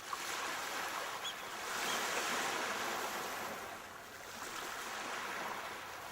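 Sea waves breaking and washing up the shore: a rushing surf that swells to its loudest a couple of seconds in, eases, then swells again.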